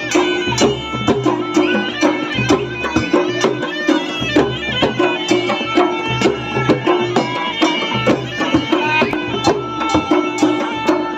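Traditional folk music: percussion beating a fast, steady rhythm over a held droning tone.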